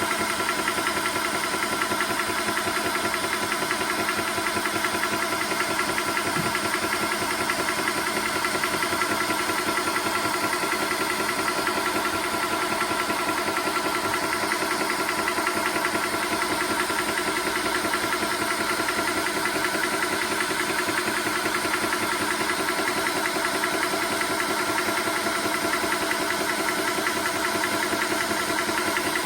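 TOAUTO A1X portable high-pressure air compressor running steadily during a timed fill, its piston pumping in a fast, even pulse over a steady hum.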